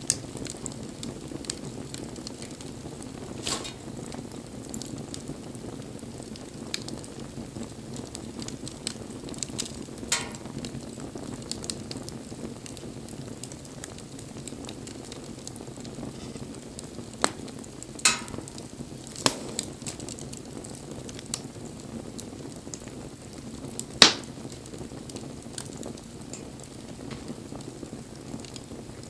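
Bonfire burning with a steady low rush of flame and about half a dozen scattered sharp pops and cracks, the loudest near the end.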